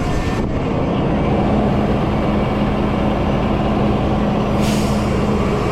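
Heavy truck engine running steadily, with a short hiss of air about four and a half seconds in.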